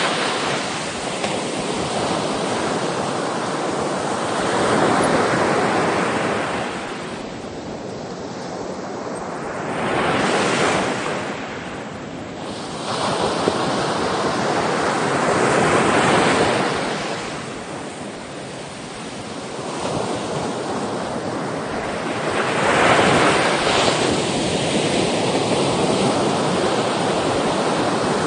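Sea waves breaking and washing up on the shore, the surf swelling and falling back in slow surges about every five to seven seconds.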